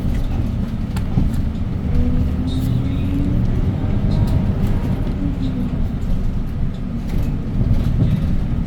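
Hyundai Green City city bus's C6GB compressed-natural-gas engine running as the bus drives, heard from inside the cabin, with a steady low rumble. The engine pitch rises and falls a few times as it pulls and eases off. Short rattles and clicks of the cabin come through now and then.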